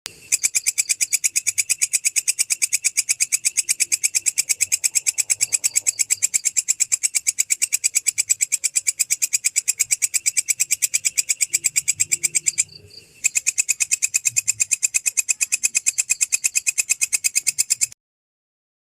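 Chirping insect stridulating: a fast, evenly spaced run of sharp, high chirps, broken off once for about half a second a little past halfway. The recording starts and stops abruptly.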